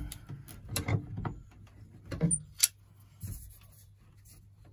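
Plastic waste-pipe fittings handled and hand-tightened: a few scattered clicks and knocks, the sharpest a click about two and a half seconds in.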